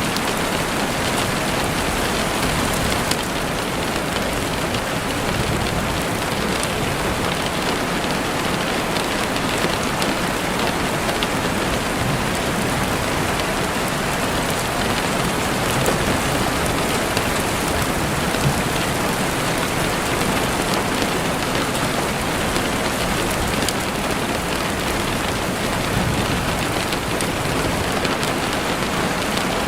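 Heavy rain falling steadily on a window pane, a dense, even hiss with scattered drop ticks.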